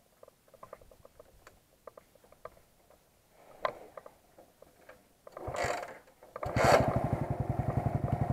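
Faint mechanical clicking, then a short cranking rush and a motorcycle engine starts easily about six and a half seconds in, settling into a steady, evenly pulsing idle.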